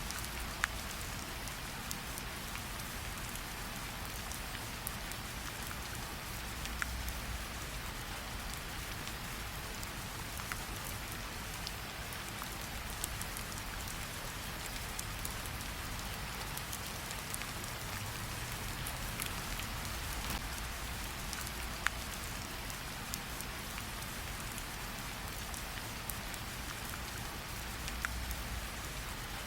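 Steady rain falling on a surface, with a few sharp pops of a campfire crackling scattered through it.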